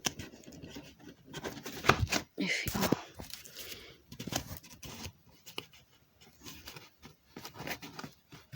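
Cardboard box and other objects being handled: irregular knocks, taps and rustles, with a short scraping, crinkling sound about two and a half seconds in.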